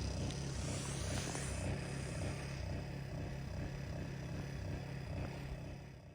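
Portable propane fire pit burning with a steady low rumble of flame, fading out near the end.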